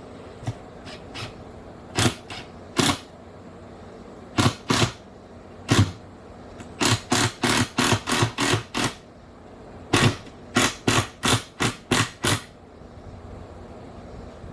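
Hammer driving nails into wooden framing: a few single blows, then two quick runs of about eight blows each at roughly four a second.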